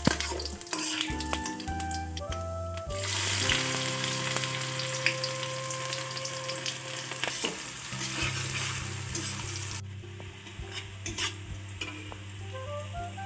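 Cumin seeds and whole spices sizzling in hot oil in a steel kadai. About three seconds in, sliced onions go in and the sizzle grows much louder, with a metal spatula stirring them. The sizzle eases somewhat after about ten seconds.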